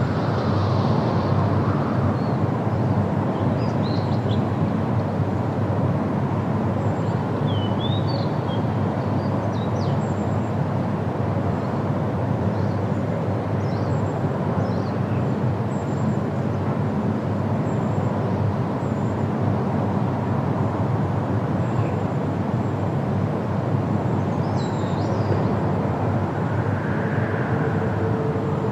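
Outdoor ambience: a steady low rumble, swelling slightly near the start and again near the end, with a few small bird chirps scattered through it.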